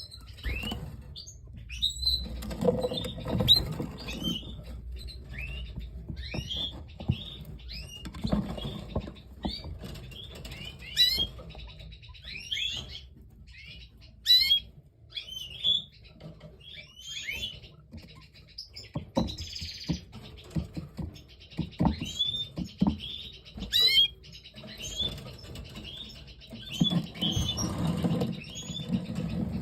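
Canaries chirping in a breeding cage: many short, high chirps repeated throughout, with sharp clicks and knocks and stretches of low rustling in between.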